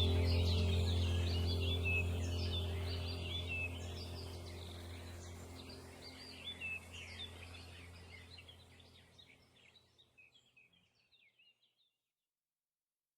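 A chorus of small songbirds chirping rapidly over a steady low drone. Both fade out slowly and are gone about two-thirds of the way through, leaving silence.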